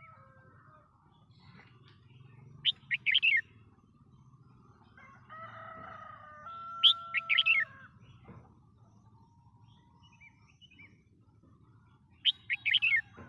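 Red-whiskered bulbul singing: three short, quick phrases of a few notes each, spaced about four to five seconds apart.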